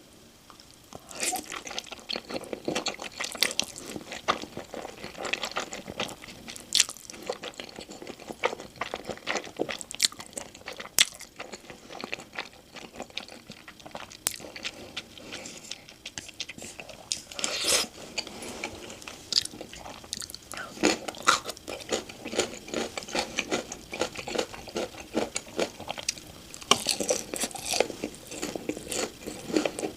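Close-miked eating sounds: crisp crunching and chewing of sweet-glazed Korean fried chicken (dakgangjeong), with dense crackles starting about a second in.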